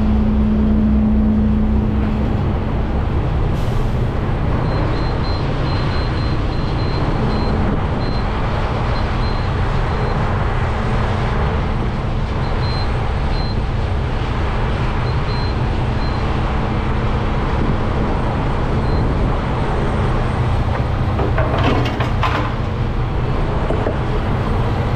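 Semi-truck diesel engine idling steadily, with a faint high beeping in short runs and a few clicks near the end.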